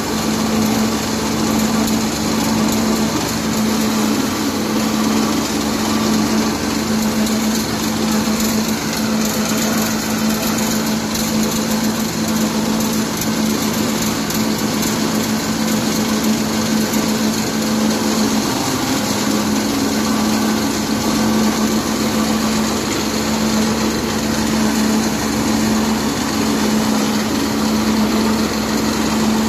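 Feed pellet mill machinery running steadily: a loud, continuous machine drone with a strong, even hum.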